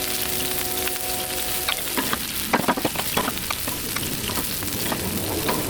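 Pork bites and potato wedges sizzling on a hot Blackstone flat-top griddle, with a metal spatula scraping and clicking on the griddle plate from about two seconds in as the potatoes are scooped up.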